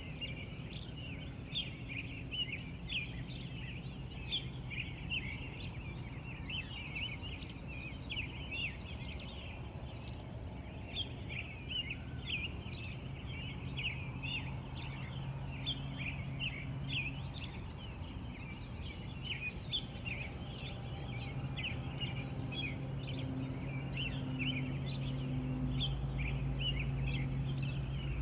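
Wild birds chirping in a morning chorus: many short, quick calls overlapping throughout, over a steady high-pitched drone. A low rumble grows louder toward the end.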